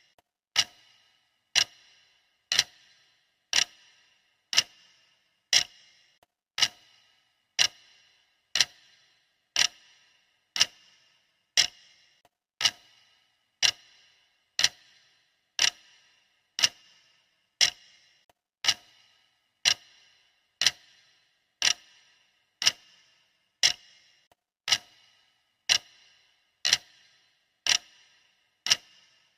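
Sharp clock ticking, one tick a second, each tick with a short bright ring after it.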